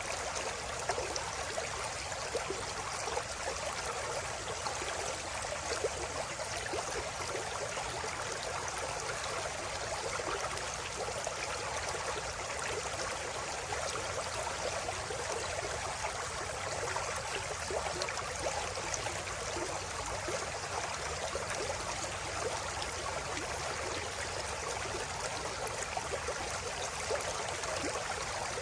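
River water flowing steadily over stones: a continuous rushing and babbling burble with fine splashing detail.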